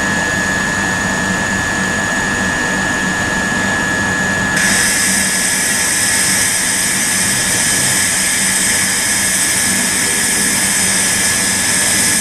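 Electric multiple-unit train running at the platform: a steady loud rushing hum with a high whine, and a cluster of higher-pitched whines joining about four and a half seconds in.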